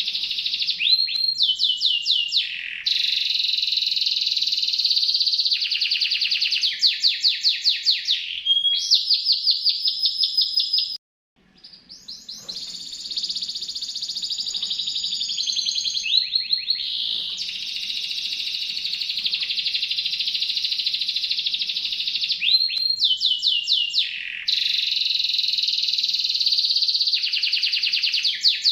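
Domestic canary singing a long, continuous song of rapid trills and rolls. The song breaks off suddenly about eleven seconds in, with a short silence before it starts again.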